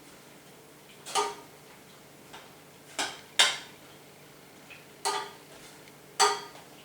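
Metal clinking against a cooking pot: five sharp strikes, each ringing briefly, two of them close together in the middle.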